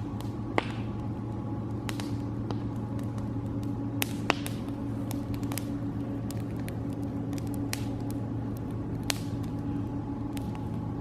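Wood campfire crackling, with sharp pops about half a second in, twice around four seconds in, and near nine seconds in, over a steady low rumble.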